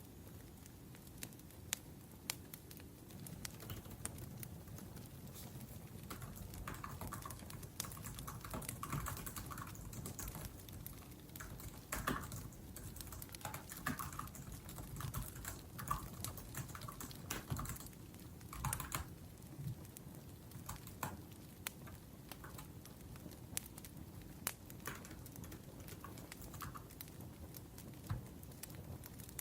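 Typing on a laptop keyboard: irregular runs of light key clicks, busier in the middle.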